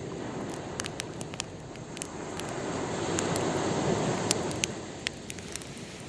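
Wood campfire crackling with frequent sharp pops, over the rush of waves that swells up and falls back again.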